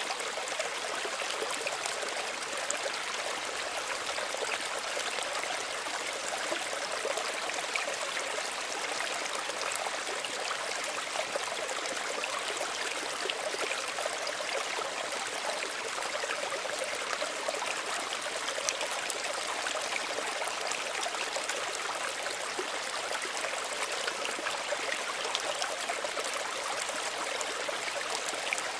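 Small stream running steadily, water trickling and babbling over stones with a constant rushing and fine splashes.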